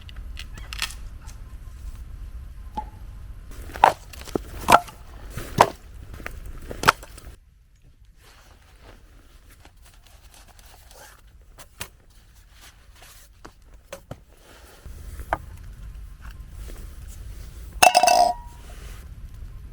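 Dry sticks and twigs being snapped by hand for firewood: four sharp cracks in the first seven seconds, then scattered small ticks, and a short louder crackle near the end.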